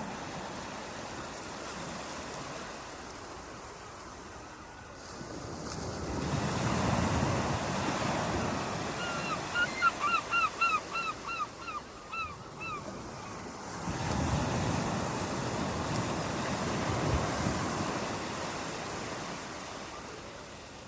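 Waves washing in, the surf hiss swelling up twice and easing off. Near the middle a bird calls a rapid run of about a dozen short falling whistled notes.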